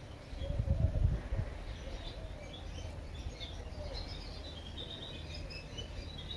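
Small birds chirping, with many quick short high calls scattered throughout over a steady background hiss. A few low thumps come about a second in.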